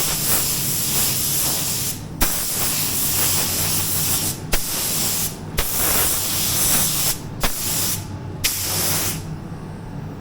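Compressed-air paint spray gun spraying in short passes: a loud hiss that cuts off and restarts about five times as the trigger is released and pulled, stopping for good about nine seconds in. A steady low hum runs underneath.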